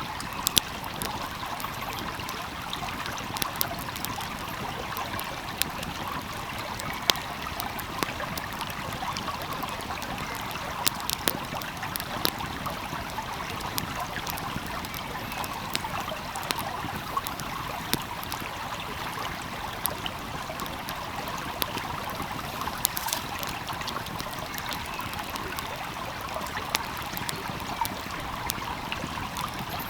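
Small stream flowing steadily, with a wood fire crackling and popping in sharp, irregular snaps over it.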